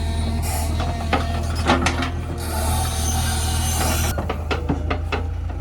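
JCB 3DX backhoe's diesel engine running steadily, with squeaks, clicks and metallic knocks from the machine's moving linkage over it.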